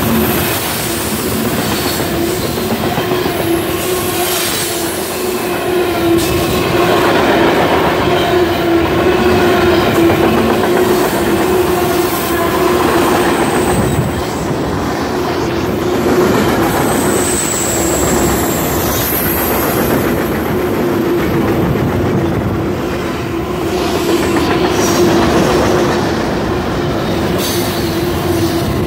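CSX freight cars rolling past close by: a steady loud rumble of steel wheels on rail with scattered clacks and a steady droning tone, plus high-pitched wheel squeals partway through.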